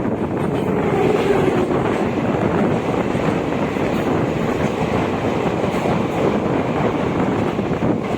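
Samleshwari Express passenger train running along the track, a steady, loud rumble and rattle of the coaches heard from on board.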